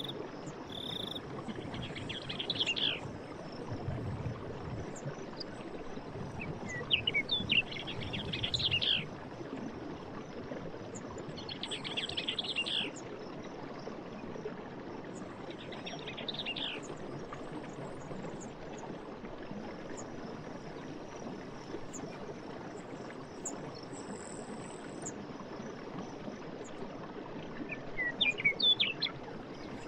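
Birds singing in short bursts of chirping every few seconds over a steady rush of running water, with a few faint high insect buzzes.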